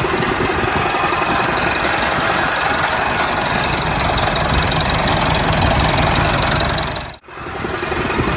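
Tractor engine running steadily with a rapid knocking beat. It cuts out abruptly about seven seconds in and comes back within a second.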